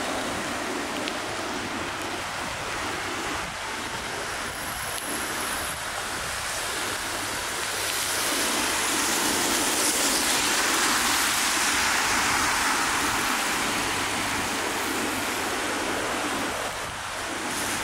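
Steady hiss of rain falling on wet city streets, mixed with the wash of traffic tyres on the wet road. It grows louder about halfway through, then eases.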